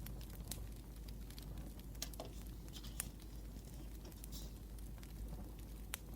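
Wood fire crackling: irregular sharp pops and ticks over a low, steady hiss and rumble.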